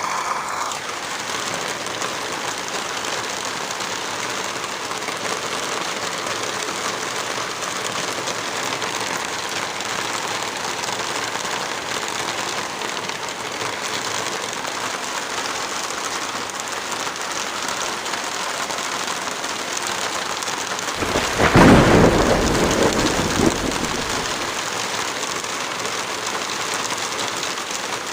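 Heavy rain falling in a steady hiss, with a short roll of thunder about three-quarters of the way in, the loudest moment.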